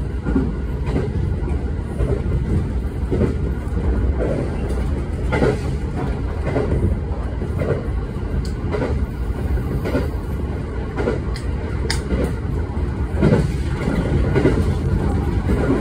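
Electric train's running noise heard from inside the passenger car at speed: a steady low rumble from the wheels and running gear, with short knocks about once a second as the wheels cross rail joints.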